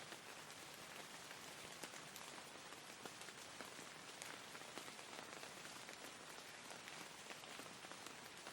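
Steady, soft rain falling, with many single drops ticking against a surface. It is faint and even throughout.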